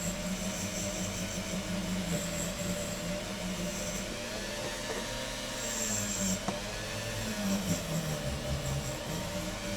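Rotary wire brush spinning against a zinc diecast car body, scrubbing off the old paint: a steady motor tone with a rubbing, scraping hiss, its pitch dipping briefly near the middle.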